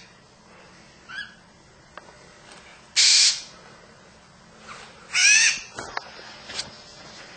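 Blue-and-gold macaw calls: three short harsh calls about one, three and five seconds in, the last two loud, the last with a wavering pitch.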